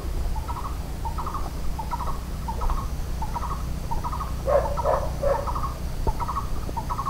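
Bird calls: short chirping phrases repeating every half second or so, with a lower, louder cluster of calls a little past the middle, over a steady low rumble.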